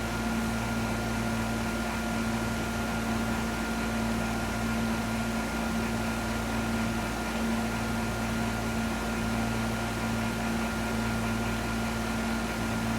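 Steady electrical and mechanical hum inside a Fukui Railway 200 series train, a constant drone with a few fixed tones and no changes or knocks.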